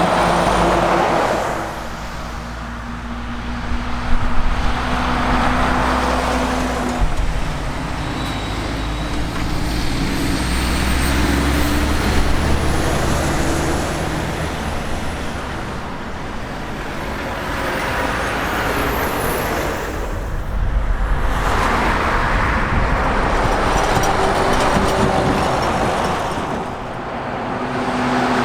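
Heavy diesel trucks driving past one after another, engine and tyre noise swelling and fading with each pass.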